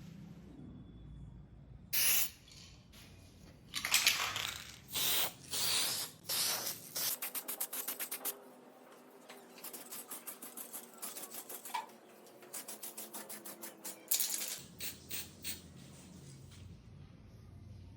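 Aerosol spray paint can spraying in short bursts, with runs of quick rattling clicks in between.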